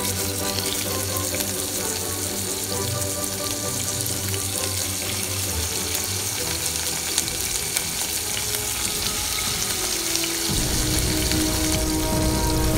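Scallops searing in hot oil in a pot, a steady sizzle with fine crackles, under background music.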